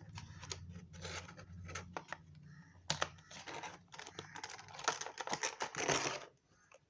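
Handling of a Bluetooth neckband earphone and its packaging: scattered small plastic clicks and taps with bouts of rustling, busiest near the end, then stopping.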